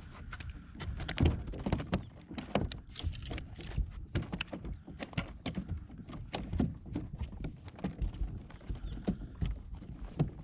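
Irregular knocking and thumping on a fishing kayak, several sharp knocks a second.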